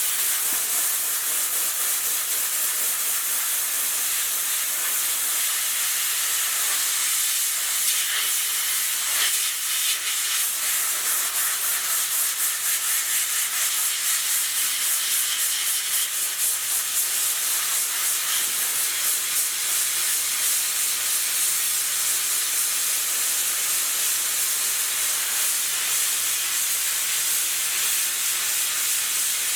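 Steady loud hiss of rushing air or spray, with a faint fast flutter in the middle.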